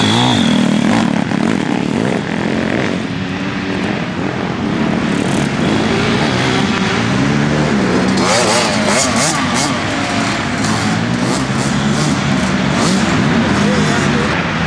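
Pit bike engine running and being revved as it is ridden, its pitch rising and falling repeatedly, with a sharp rev-up about eight seconds in.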